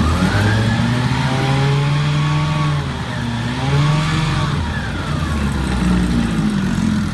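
1963 Johnson 5.5 hp two-stroke twin outboard running in reverse gear, revved up, dropping back about three seconds in, revved briefly again, then settling to a lower speed.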